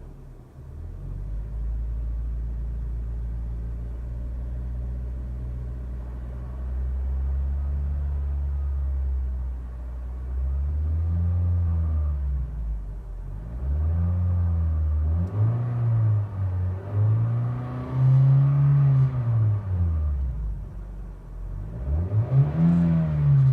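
Toyota Auris RS engine and stock exhaust heard from inside the cabin: a steady low idle, then from about ten seconds in the engine is revved up and let fall back about five times, each rev rising and dropping within a second or two.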